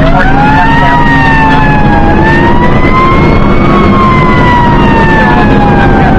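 Fire engine siren wailing in one slow cycle: the pitch rises quickly at first, peaks a little before the middle, then slowly falls. The truck's engine hums steadily beneath and rises in pitch about two seconds in as it picks up speed.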